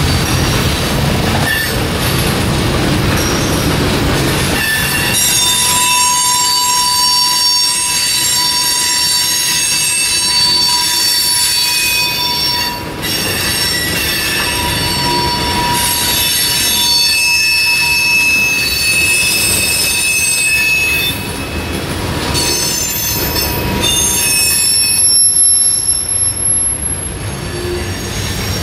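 Freight cars rolling past on steel rails, with the wheels squealing in several high, steady tones from about five seconds in until near the end.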